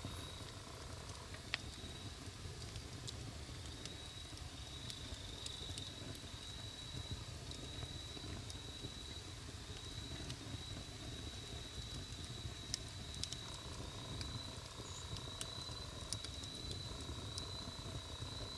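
Wood campfire burning, with a low steady rumble and scattered sharp crackles and pops of burning wood.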